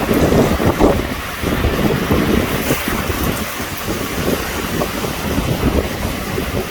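Thunderstorm wind gusting hard with heavy rain, the gusts buffeting the microphone in a loud, uneven rumble that is strongest in the first second and a half.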